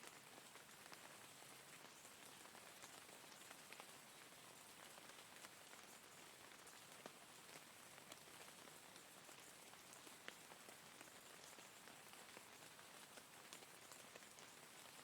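Faint steady rain, an even hiss with many individual drops ticking, a few a little louder than the rest.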